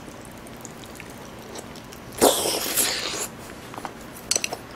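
Close-miked mouth sounds of a large mouthful of rice and fried egg being chewed: quiet at first, then a loud wet noisy burst about two seconds in that lasts about a second, and a few small sharp clicks near the end.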